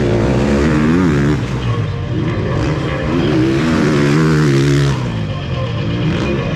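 Motocross bike engines revving hard and dropping off again and again, several bikes overlapping, as they race round the track.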